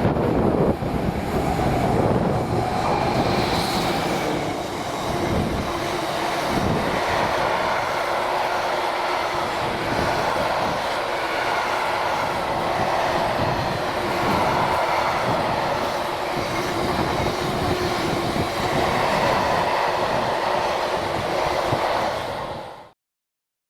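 Train running past on the line: a steady rumble of wheels on rail with a fast, fine clatter. It cuts off suddenly near the end.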